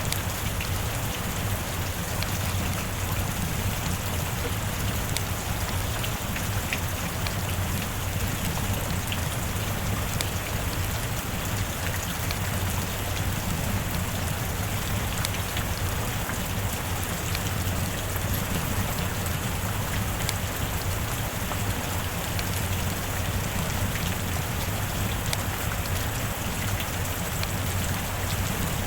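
Steady rain falling, a dense even hiss with individual drops ticking through it over a constant low rumble.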